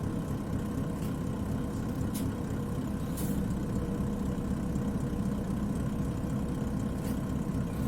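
Isuzu Cubic KC-LV380N city bus's diesel engine idling steadily, heard from inside the passenger cabin, with a few faint clicks.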